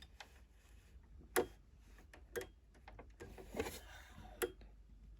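Sewing machine parts clicking and tapping as the machine is handled while being threaded: a few sharp clicks about a second apart, the loudest near the middle.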